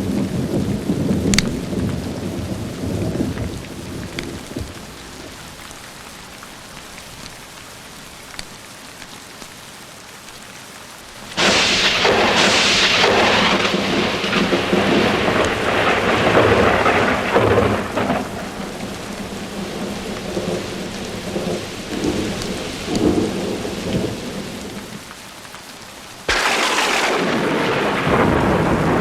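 Thunderstorm with steady rain: a rumble of thunder dies away over the first few seconds, then a sudden sharp thunderclap about eleven seconds in rolls and rumbles for several seconds, and another sudden clap breaks near the end.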